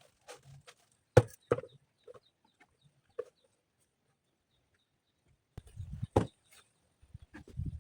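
Scattered sharp knocks from stone and tool work, the loudest a little over a second in and another about six seconds in, with low rumbling handling noise near the end.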